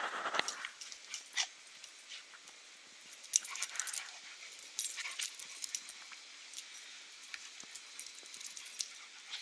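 Puppies play-fighting: a short whining cry at the start, then scattered short clicks and scuffles.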